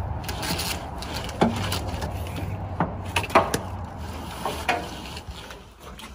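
Scattered sharp knocks and rubbing, about half a dozen irregular strikes of hands and tools handling parts, over a low steady hum.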